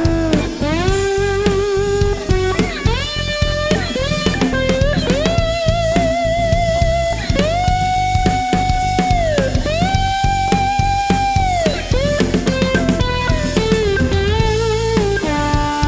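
Electric guitar played through the JHS Berkeley fuzz pedal, a single-741-op-amp Fresh Fuzz clone, over a drum beat. It plays a lead line of long sustained notes with slow string bends up and back down and wavering vibrato on the held notes.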